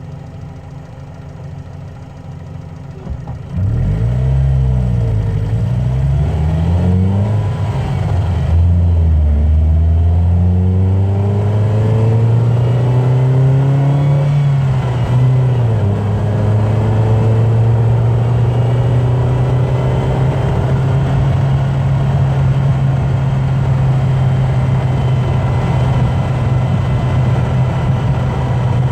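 Car engine pulling away from a low idle: it picks up suddenly after about three and a half seconds, the pitch rising and dropping back at each upshift through several gears, then holds a steady cruising tone for the rest.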